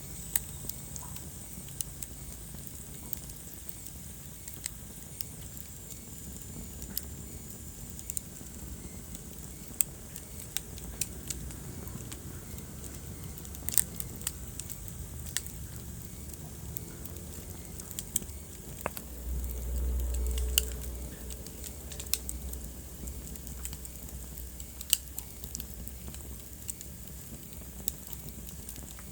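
Wood fire burning in a fireplace, crackling with irregular sharp pops and snaps over a steady low rumble. About two-thirds of the way in, a louder low rumble swells for about two seconds.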